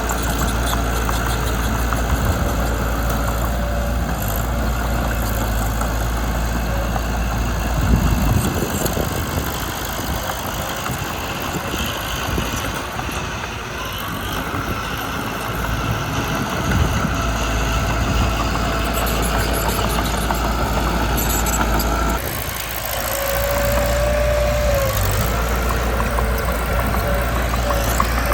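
Diesel engine of a Mitsubishi BD2 crawler bulldozer running with a steady low rumble. The sound changes abruptly about 22 seconds in, followed by a short high whine.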